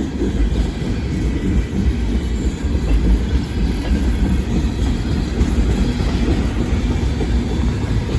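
CSX intermodal freight train's cars rolling past, a steady low rumble of wheels on rail.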